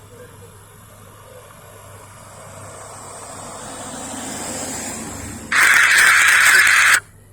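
A vehicle passes, its noise growing slowly louder. About five and a half seconds in, a loud burst of hissing noise starts and stops abruptly, lasting about a second and a half.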